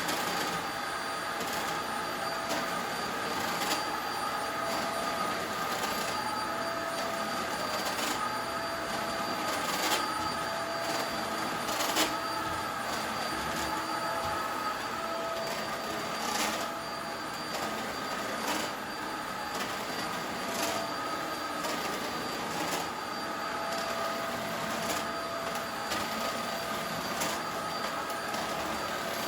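Corded cyclone vacuum cleaner running steadily while vacuuming, with a whine made of several steady tones and irregular sharp clicks. The machine was making an odd noise.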